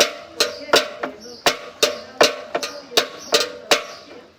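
Small bells struck in a quick ringing peal: about a dozen sharp strikes at roughly two to three a second, in a slightly uneven rhythm, each with a short ringing tail.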